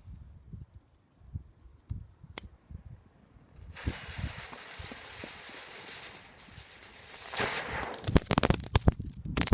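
Dragon's egg fireworks going off: a few faint clicks, then a sudden fizzing hiss about four seconds in that swells, and then a fast run of sharp crackling pops near the end.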